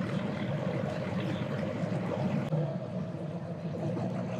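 Outboard motors of bass boats running, a steady engine hum.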